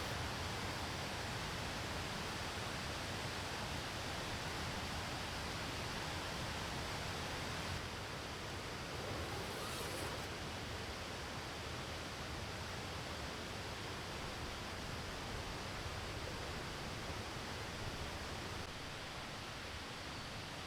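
Steady, even outdoor hiss of the kind made by rain, running water or wind, easing slightly about eight seconds in, with a brief faint rustle a couple of seconds later.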